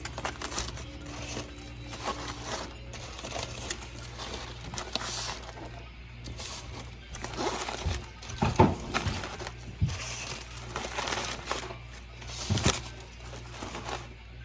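Food wrapping being crinkled, crumpled and torn in irregular rustling bursts.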